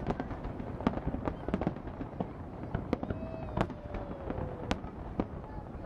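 Aerial fireworks shells bursting over a river, heard as a fast, irregular string of bangs and crackles over a continuous low rumble. A long, slowly falling tone stands out about three seconds in.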